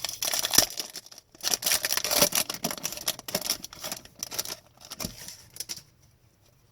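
Crinkling and rustling of a trading-card pack's foil wrapper being opened, with the cards handled in quick irregular bursts; it stops about a second before the end.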